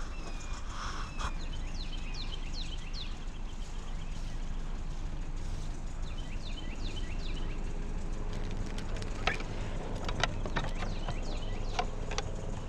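Small birds chirping in groups of quick falling notes over a steady low rumble; from about nine seconds in, several sharp knocks and clicks.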